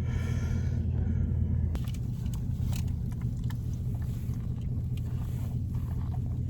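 Steady low road and engine rumble heard from inside a moving car's cabin, with scattered light clicks and rustles over it after the first couple of seconds.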